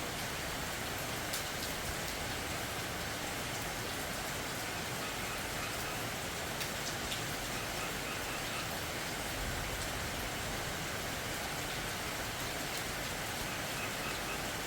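Steady rain falling, an even hiss with occasional sharper taps of individual drops.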